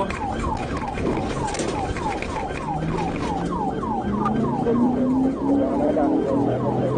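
Police car siren in a fast yelp, its pitch sweeping down about three times a second. About halfway in, a lower vehicle engine note joins it and climbs slowly in pitch as the vehicle accelerates.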